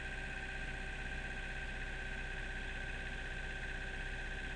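Kubota mini excavator's diesel engine running at a steady speed, with a steady high-pitched whine over it.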